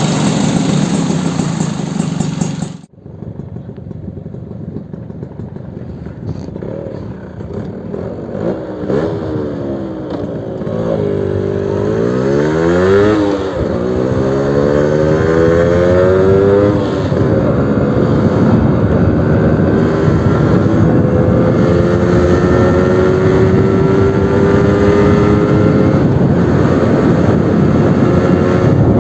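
Suzuki RC100 two-stroke single-cylinder motorcycle engine running through its new exhaust. After a sudden brief dip about three seconds in, the revs swing up and down several times, then the pitch climbs slowly and steadily as the bike pulls under load.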